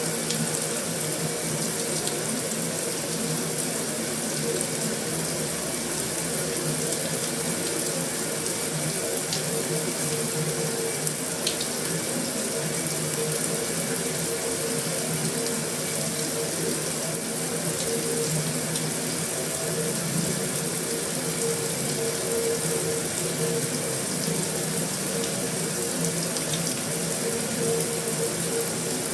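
Heavy rain falling steadily on a metal roof: an even, unbroken hiss, with a couple of sharper drop taps about ten seconds in.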